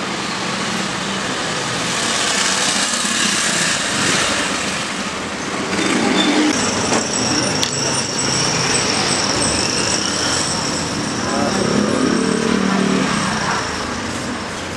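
Street traffic noise with background voices murmuring, and a steady high-pitched whine from about six seconds in to near the end.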